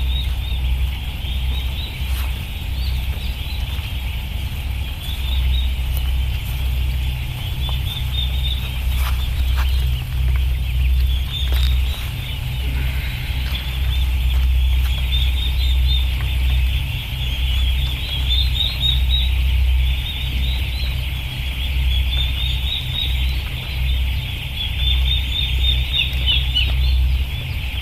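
Large flock of poultry calling at once, a dense unbroken high chatter, over a steady low rumble.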